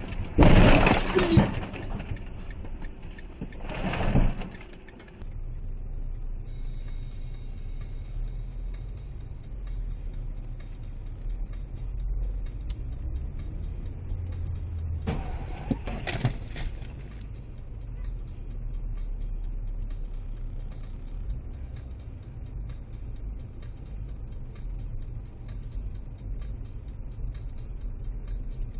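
Dashcam recording from inside a moving car: a steady low engine and road rumble, with a short burst of knocks or clatter about fifteen seconds in. It opens with a few seconds of louder noise that has two sharp peaks.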